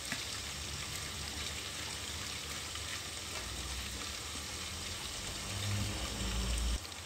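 Salted fish frying in oil inside an electric rice cooker, with a steady sizzle. A wooden pestle grinds chilies in a wooden mortar alongside. A louder low rumble comes in about five and a half seconds in and cuts off suddenly just before the end.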